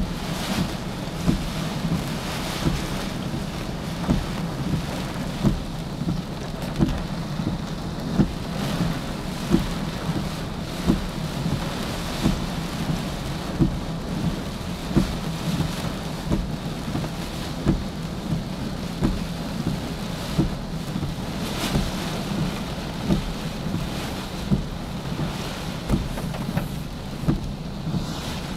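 Steady rush of water from a waterfall swollen by typhoon floodwater, with a short low thump repeating about every second and a half.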